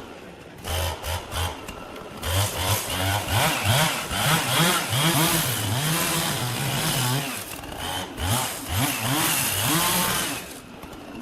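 Chainsaw engine revving up and down over and over, its pitch rising and falling with the throttle, then dropping away near the end.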